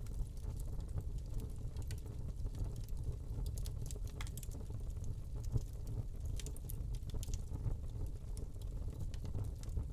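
Wood log fire burning in a fireplace: a steady low rumble of flames under frequent small crackles and pops, with one sharper pop about five and a half seconds in.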